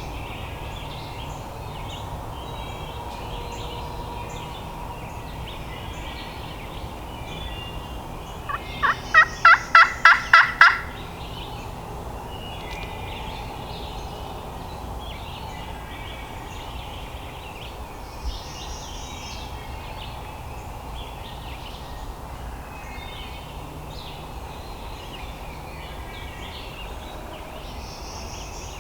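A series of about eight loud, evenly spaced turkey yelps on a hunter's turkey call, about nine seconds in, lasting some two seconds. Under it and throughout, a chorus of songbirds chirping.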